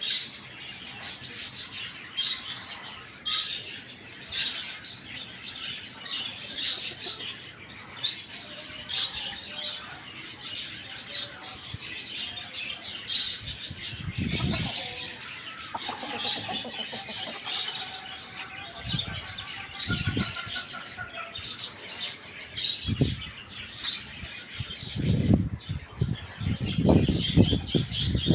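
Many small birds chirping busily and continuously, with several low thumps in the second half and a cluster of them near the end.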